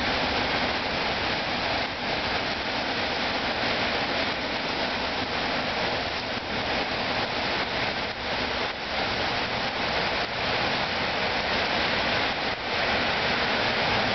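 Heavy downpour: rain coming down fast in a dense, steady hiss.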